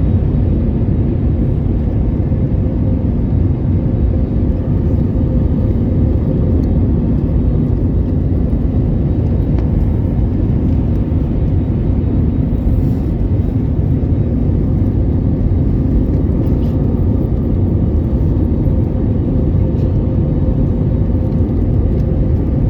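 Steady low rumble heard from inside the cabin of a Boeing 787-8 airliner, with a faint constant hum and no change in level.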